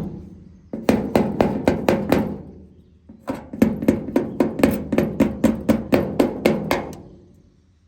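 Hammer rapidly tapping on the steel pickup bed's side trim to knock it loose, in two quick runs of strikes about five or six a second, each with a short metallic ring.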